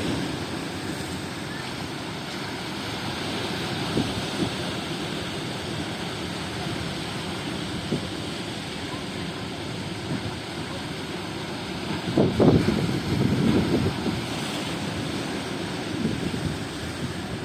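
Strong wind buffeting the microphone over the steady wash of surf, louder for a couple of seconds about twelve seconds in.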